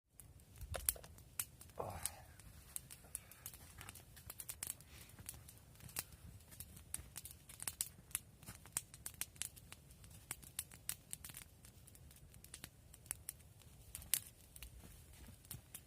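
Small wood campfire burning, with dense, irregular crackles and sharp pops over a low steady rumble. A short falling tone sounds about two seconds in.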